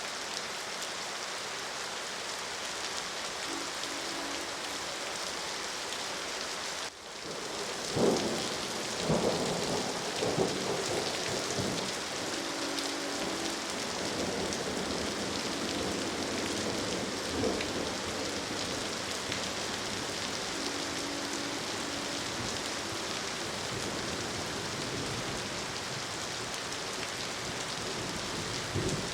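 Steady rain, with thunder rumbling and cracking from about eight seconds in, right after the rain dips for a moment. A distant train horn sounds faintly several times.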